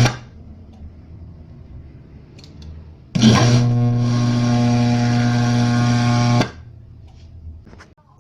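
DB Audio power amplifier's hum fault: a loud, steady, low buzzing hum that comes on abruptly about three seconds in and cuts off suddenly about three seconds later. A short loud burst sounds at the very start.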